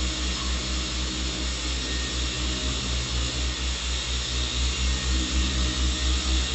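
A machine running steadily, with a low throb that pulses evenly about four to five times a second over a steady hiss.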